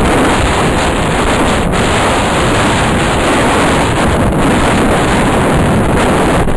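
Strong wind blowing hard across the microphone, steady and loud, over the surf of a rough sea.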